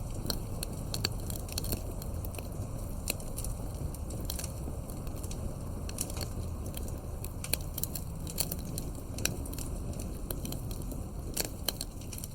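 Wood fire burning, a steady low rumble of flames with frequent irregular crackles and pops from the burning logs.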